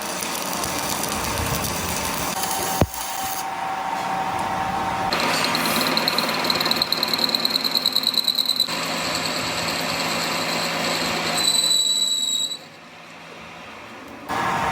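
Workshop power-tool and machining sounds in several short edited segments. There is a sharp knock about three seconds in, and later a steady high whine with a fast pulsing beat.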